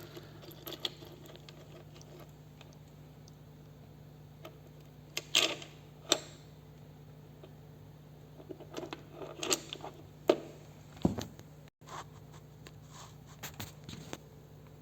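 Scattered small clicks and rustles of a smart watch and its charging clip being handled, over a steady low hum.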